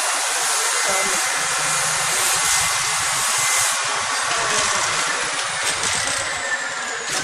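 Petrol engine of a water-injection test setup running steadily at a constant speed, an even, continuous mechanical noise.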